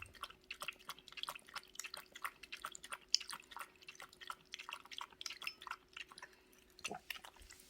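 Pomeranian lapping water, a fast run of small wet clicks several times a second that stops a little before the end.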